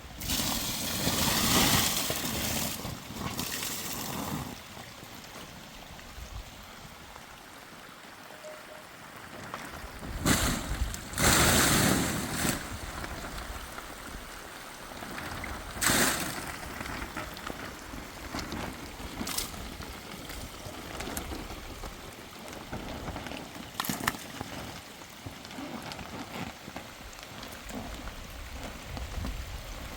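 Steady heavy rain, with several louder surges of noise lasting a second or two, near the start and around the middle, and a few short sharp ones later.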